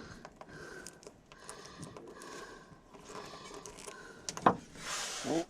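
Faint scattered clicks and handling noises of parts and hand tools being worked, with one sharp knock about four and a half seconds in, followed by a brief rushing noise.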